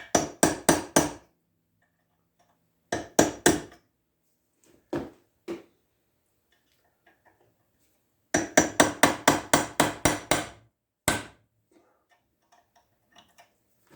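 Hammer blows on a small steel chisel driven into a shell mill held in a vise, chipping at a piece stuck inside the cutter. The blows are sharp metal-on-metal strikes in quick runs of about five a second: a short run at the start, another about 3 s in, a long run of about a dozen near the middle, then a few single blows and light taps.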